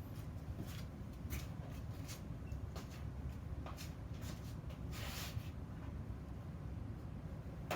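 Scattered light clicks and a brief scrape about five seconds in, over a low steady hum, with a sharper click near the end: small workshop handling noises.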